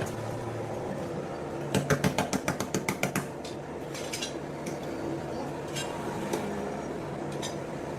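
A quick run of about a dozen sharp metallic clinks, dying away, over a steady low machine hum, with a few single clicks later on.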